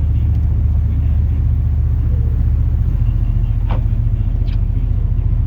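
Pickup truck driving, heard inside the cab: a steady low engine and road rumble. Two short high chirps come a little after the middle.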